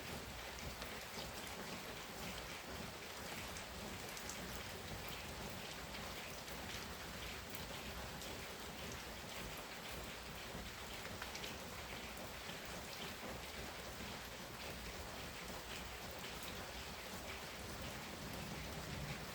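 Heavy rain falling steadily, with many individual drops ticking on nearby surfaces.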